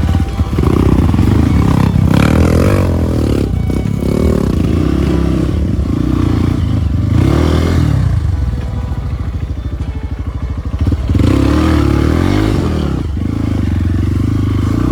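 Trail motorcycle engine revving up and easing off under the rider's throttle, dropping to a lower, quieter run a little past halfway before picking up again.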